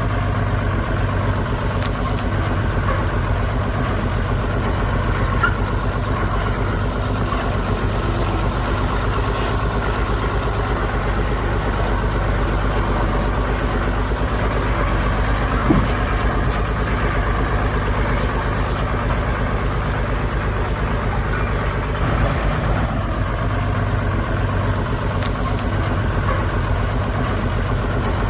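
Diesel engine of heavy earthmoving machinery running steadily, with one short knock about halfway through.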